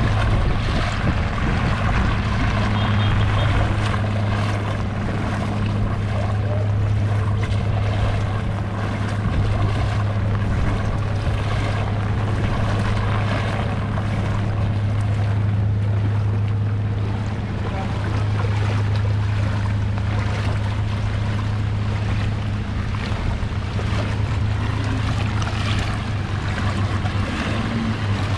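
Rain falling on floodwater and water washing around the wader make a steady noisy wash, over a strong steady low hum.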